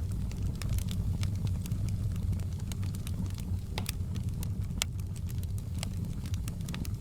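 Wood fire burning in a fireplace: a steady low rumble of flames with scattered sharp crackles and pops, two of them louder near the middle.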